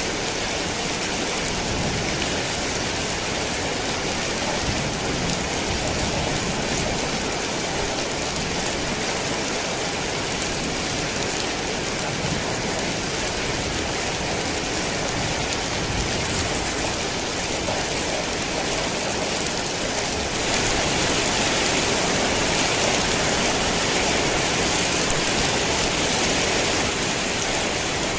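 Heavy rain falling steadily as a dense, even hiss of drops on surfaces. It grows slightly louder about twenty seconds in.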